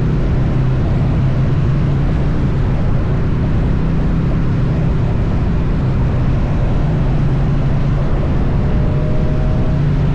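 Triumph Bonneville T100 motorcycle engine running steadily at highway speed, under heavy wind and road rush. About nine seconds in, the engine note starts to rise as the bike accelerates.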